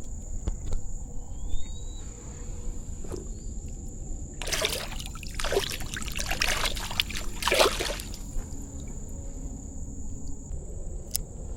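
Water splashing and sloshing for about three seconds around the middle, as a smallmouth bass is released back into the creek. A steady high-pitched cricket drone runs underneath.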